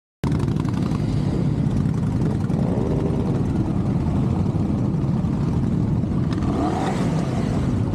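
A group of motorcycle engines running, the revs rising and falling now and then as the bikes pull away. The sound cuts in abruptly about a quarter second in.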